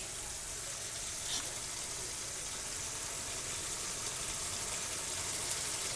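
Food sizzling steadily in a frying pan, a constant even hiss.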